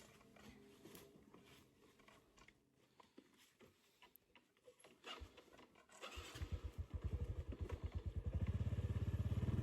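Faint scattered clicks, then about six seconds in a small engine starts running with a fast, even pulse and grows steadily louder.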